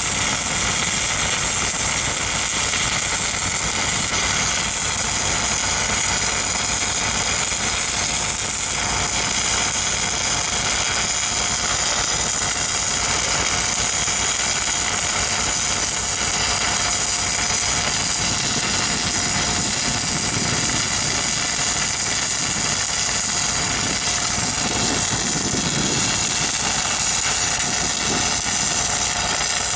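Stick-welding arc crackling steadily on pipe, over the steady running of an engine-driven welding machine.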